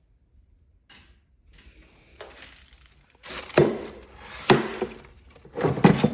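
Hard objects clinking and clattering as they are rummaged through and moved about, with three loud clatters in the second half.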